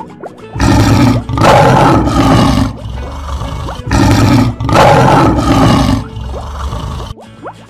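Lion roar sound effect, heard twice: a short swell then a longer one starting about half a second in, and the same again about four seconds in.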